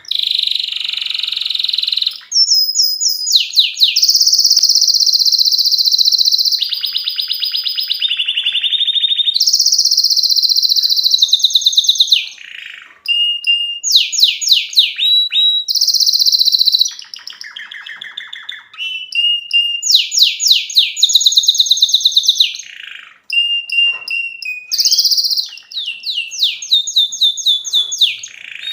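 Domestic canary singing an excited, continuous song of rapid trills and rolls, each repeated pattern held for a second or two before switching to another, with a few short pauses.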